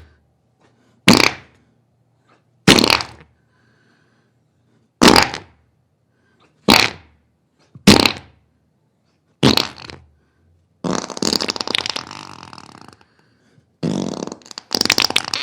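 A series of farts: six short ones a second or two apart, then two longer, sputtering ones near the end.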